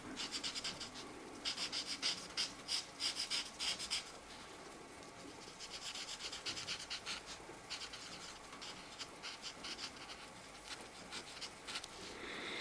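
Marker tip rubbing back and forth on a colouring-book page in quick strokes, strongest in the first four seconds, then softer strokes.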